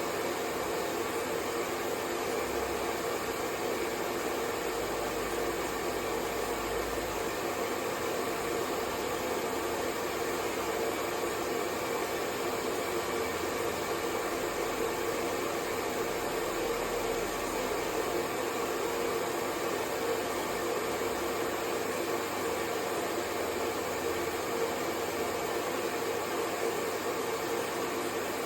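Hair dryer running steadily, a constant blowing whoosh with a faint motor hum, used as white noise to lull a baby to sleep.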